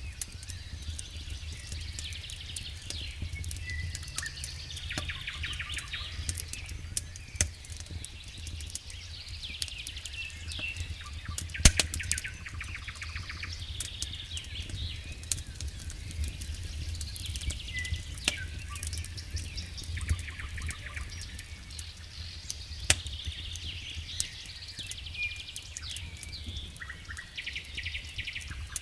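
Wood campfire crackling with scattered pops, one sharp loud pop about twelve seconds in, while songbirds sing repeated trills and chirps.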